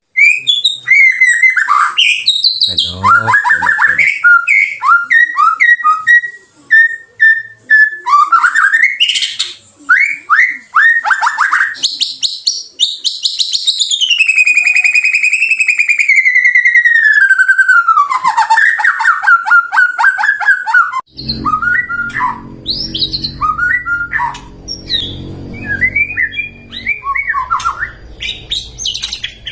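White-rumped shama (murai batu) singing loudly, a fast run of varied whistles, chirps and trills, with a long, slowly falling trilled whistle around the middle. About two-thirds of the way through, a steady low background rumble joins the song.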